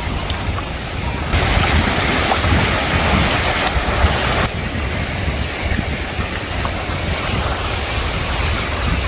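Ocean surf washing in, with wind rumbling on the microphone; a louder wave wash rises about a second in and fades after a few seconds.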